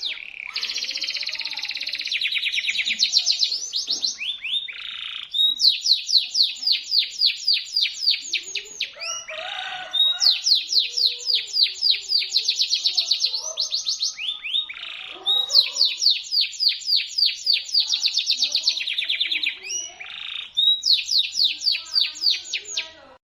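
Local canary singing shrill, sharp song: long fast trills of repeated high down-slurred notes, about eight to ten a second, in phrases of a few seconds broken by brief pauses and a few lower scratchy notes.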